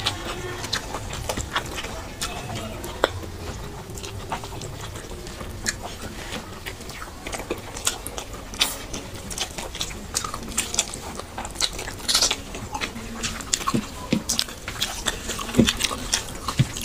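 Two people eating fried rice with their hands: chewing and wet mouth smacks in many short, irregular clicks.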